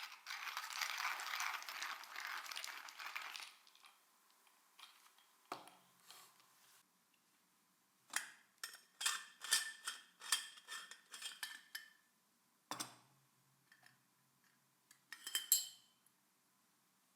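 A few seconds of steady hiss, then kitchenware being handled: a quick run of metal and dish clinks and taps, a knock, and another short burst of clinking near the end.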